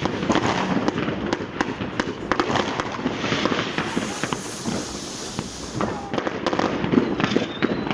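Street fireworks and firecrackers going off all around: a dense, irregular run of sharp bangs and crackles, with a hissing rush partway through, over a crowd's voices.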